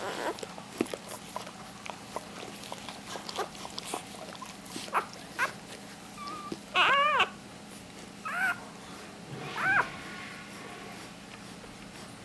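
Newborn puppies squealing: three short, high-pitched cries in the second half, the first the loudest and longest, among faint scattered clicks.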